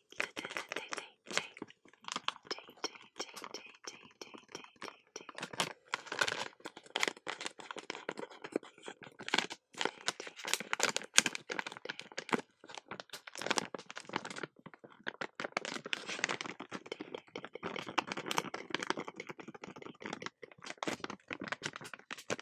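Rapid, irregular crackling and tapping sounds made close to the microphone, with short scratchy rustles in between.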